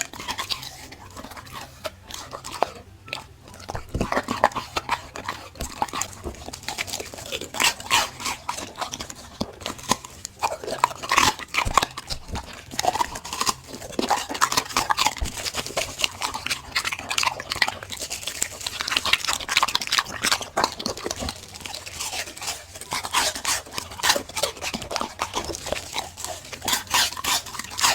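A dog chewing and crunching food, with many short, irregular crunches throughout.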